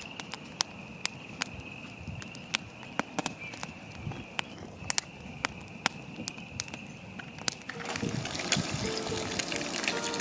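Campfire crackling: irregular sharp pops and snaps over a faint steady high tone. Background music comes in near the end.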